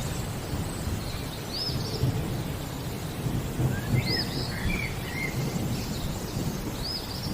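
Steady rain with a low rumble of thunder beneath it, while a bird repeats a short, high, arched call about every three seconds, with a few lower chirps around the middle.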